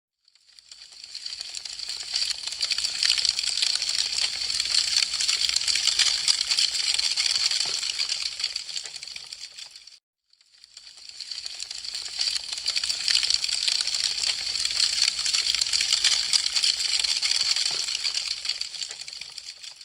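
Wood fire crackling: a dense, fast patter of small crackles and pops. It fades in from silence, runs for about eight seconds and fades out, then the same stretch fades in and plays again, with a moment of silence near the middle and near the end.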